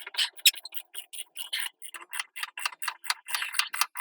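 Rapid, regular clicking, about five sharp clicks a second.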